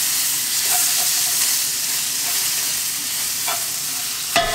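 Minced ginger and garlic sizzling steadily in hot oil in a wok while being stirred with a spatula, with a few light scrapes and taps against the wok. A sharp ringing knock comes near the end.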